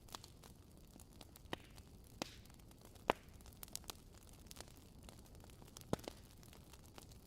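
Wood fire crackling in a fireplace: irregular sharp pops over a soft low hiss, the loudest about three seconds in and another near six seconds.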